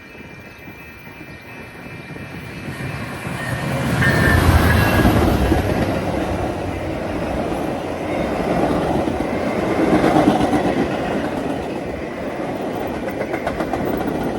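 A train passing close by: the rumble builds and peaks about four seconds in. A steady run of wheel clatter over the rail joints follows as the cars go by.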